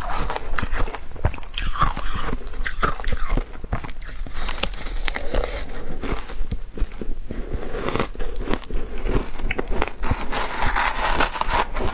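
Matcha-flavoured shaved ice being bitten and chewed close to the microphone: a rapid, continuous run of crisp crunches and crackles.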